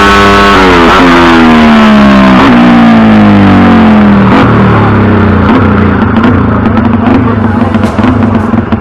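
Motorcycle engine held at high revs, then the revs fall away steadily over about three seconds and it settles into a lower, steady idle.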